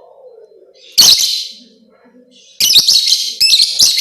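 Lovebird calling in loud, shrill chattering bursts: a short burst about a second in, then a longer rapid run of chirps in the last second and a half.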